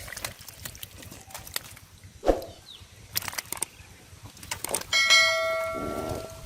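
A single bell-like ring about five seconds in, one clear tone with overtones that fades slowly. Before it come scattered clicks and a dull thump.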